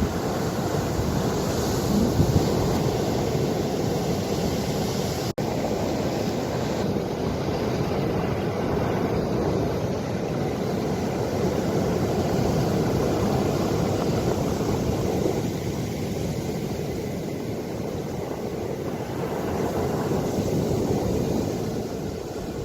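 Ocean waves washing in and out, a steady rush that swells and eases slowly, with wind buffeting the microphone. The sound drops out for an instant about five seconds in.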